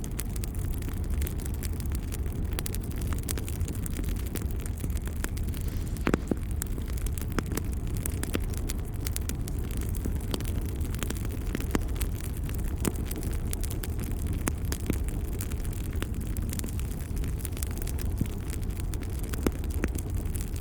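Wood fire crackling in a fireplace, with scattered sharp pops over a steady low rumble; one louder pop about six seconds in.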